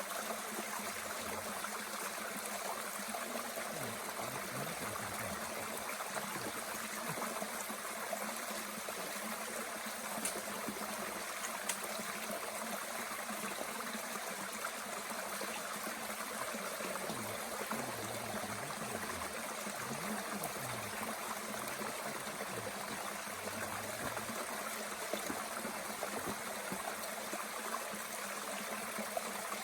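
Mountain stream running steadily, with a couple of faint crackles from a small wood fire in a Bushbox stove.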